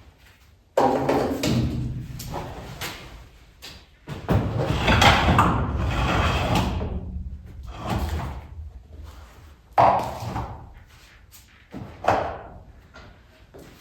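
A series of heavy knocks, each followed by a rough scraping or rumbling sound lasting one to three seconds; the loudest and longest comes about four seconds in.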